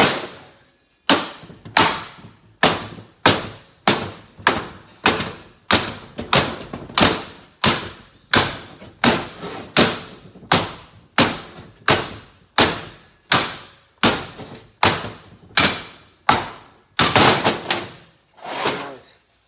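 Rubber mallet striking a steady run of blows, about one and a half a second, to knock the rusted, seized shift-fork shafts and transmission out of a 1975 Kawasaki F9 350 engine case.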